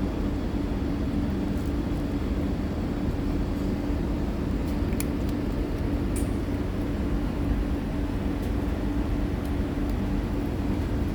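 Steady low mechanical hum with a constant drone, unchanging throughout, and a few faint clicks over it.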